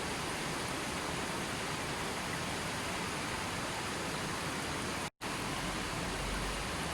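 Steady, even rushing of flowing water. It cuts out to silence for a split second about five seconds in, then resumes with a bit more low rumble.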